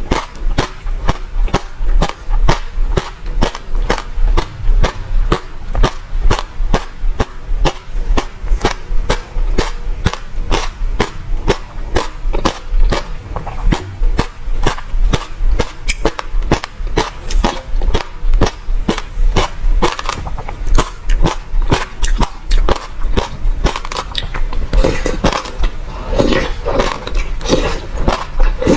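Close-miked eating of passion fruit: a fast run of sharp, crisp crunches and clicks, several a second, as the seeds and pulp are chewed. Wetter mouth sounds fill in between the crunches near the end.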